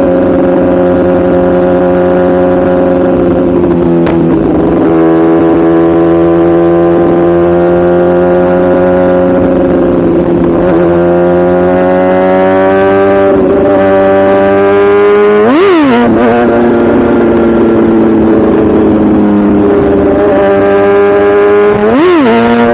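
2017 BMW S1000RR's inline-four engine running steadily under way, its pitch stepping down around four and ten seconds in with gear changes. Two brief, sharp rev spikes about sixteen and twenty-two seconds in.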